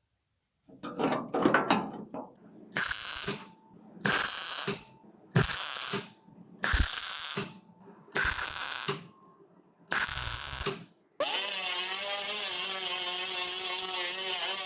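A hand tool rasps over metal in six even strokes, about a second and a half apart. About eleven seconds in, a motor-driven machine starts and runs steadily, its pitch wavering slightly.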